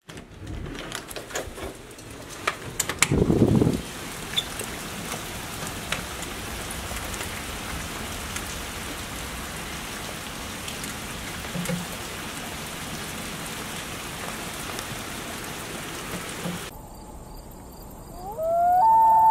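Steady rain falling, with scattered close drip taps in the first few seconds and a brief low rumble about three seconds in. Near the end the rain cuts off and a rising, then held, wailing tone begins.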